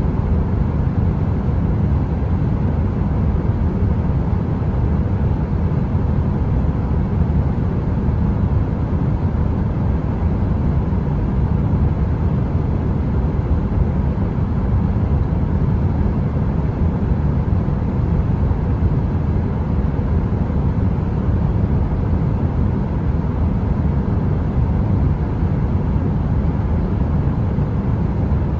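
Space heater's fan blowing: a steady, deep rushing noise, like brown noise, with a faint hum and no crackle.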